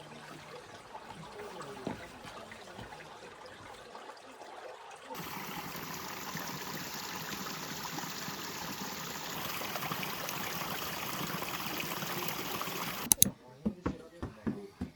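Mountain stream running over rocks. About five seconds in it cuts to a louder, fuller rush of water, which ends abruptly with a sharp click near the end, followed by a run of short separate sounds.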